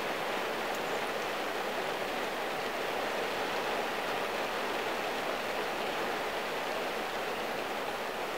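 Steady rain falling on a car's roof and windshield, heard from inside the cabin as an even hiss.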